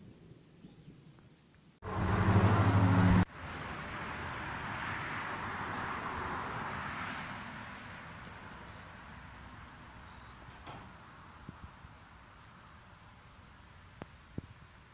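A steady, high-pitched insect chorus of chirring crickets or cicadas. About two seconds in, a loud low-pitched hum lasts about a second and a half and cuts off suddenly.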